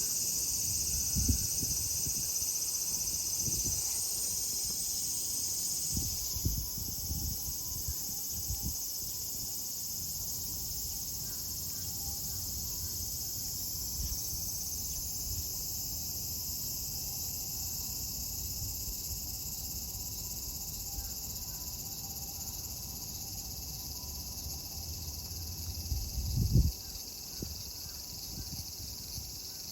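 Cicadas singing in a steady, high-pitched chorus whose loudest layer drops away about six seconds in. A few low thumps sound over it, the loudest near the end.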